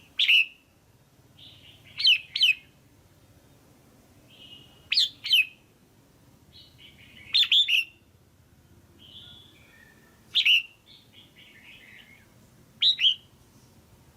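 Female red-whiskered bulbul calling, the kind of call used to excite male bulbuls. Short, sharp chirps repeat every two to three seconds, some in quick pairs, with softer warbling notes between them.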